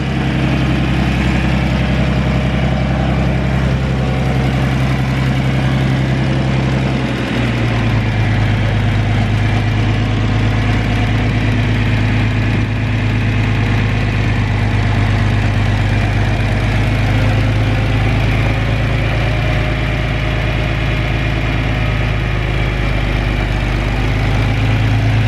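John Deere 4010 tractor's six-cylinder engine idling steadily, settling to a slightly lower pitch about seven seconds in.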